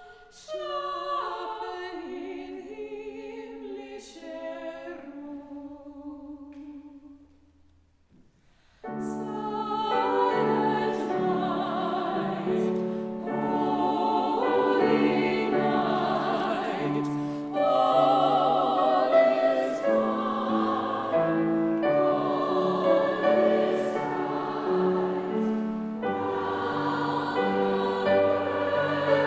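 Operatic female voices singing a Christmas medley with piano accompaniment. A soft phrase descends and fades into a brief pause about eight seconds in. Then several voices with wide vibrato come in louder over the piano.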